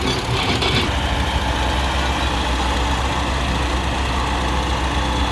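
Heavy diesel engine of a Hyundai Robex 1300W wheeled excavator running steadily at a low, even hum, with a brief higher rattle in the first second.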